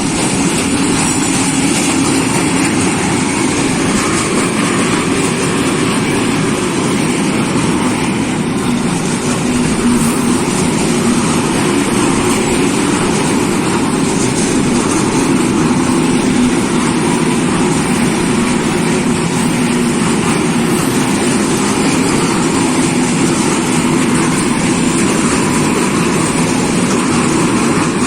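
Diesel train running steadily, a loud, even engine and rolling noise with no break.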